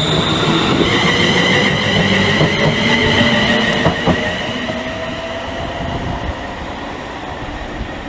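Class 380 electric multiple unit running, with a continuous rumble and steady high-pitched whining or squealing tones that fade about halfway through. A lower whine then rises slowly as the overall sound grows quieter.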